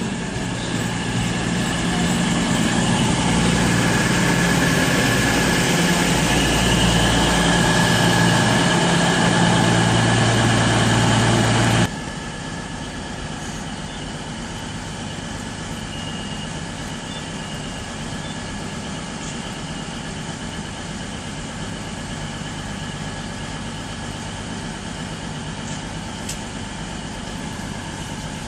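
Diesel passenger train's engines running loud and steady at the platform, growing louder over the first few seconds. The sound drops off abruptly partway through to a quieter, steady idling engine sound.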